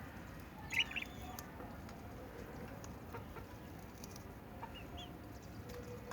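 A pair of parrots calling: one short, loud squawk about a second in, then a few faint short calls near the end.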